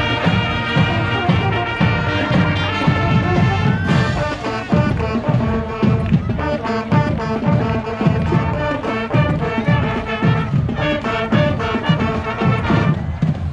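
Marching band playing: brass instruments carrying the tune over a steady drum beat.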